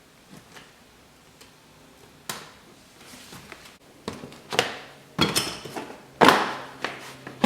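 Plastic interior trim at the car's kick panel being worked loose by hand: a sharp knock about two seconds in, then a run of louder knocks, scrapes and rustles in the second half.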